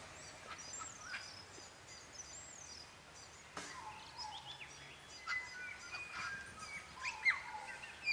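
A chorus of wild birds calling with many short high whistles and chirps, among them the lower, falling two-note 'more-pork' call of a morepork, New Zealand's native owl.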